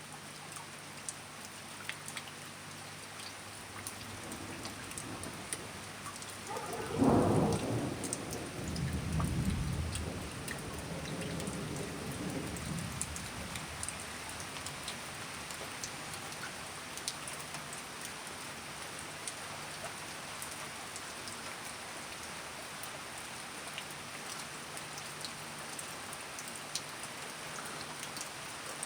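Steady rain with scattered drips. About seven seconds in, a loud thunderclap cracks and rolls away in a low rumble lasting several seconds, then the rain carries on.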